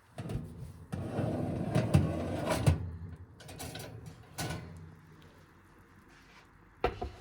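Household handling noises: a scraping rustle with a few sharp knocks, and a quick double knock near the end.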